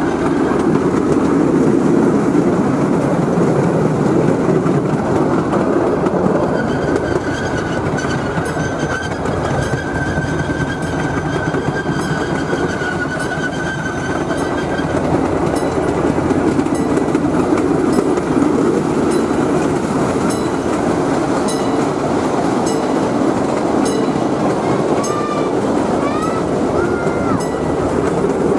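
Train rolling along the track: a steady rumble with regular clicking of wheels over rail joints and a thin wheel squeal through the first half.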